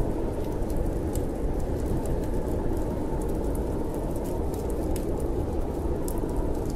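Steady low wind noise from a snowstorm, with the crackle of a wood fire over it: scattered sharp pops and snaps.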